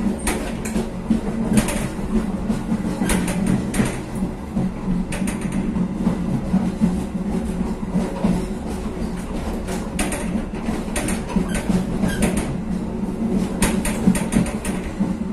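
Passenger train running, heard from its last carriage: a steady rumble of the wheels and running gear with irregular clacks and rattles from the wheels on the track.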